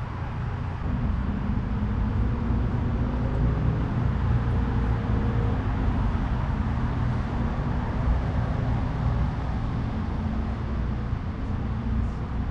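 Steady road traffic noise: a continuous low rumble of passing cars.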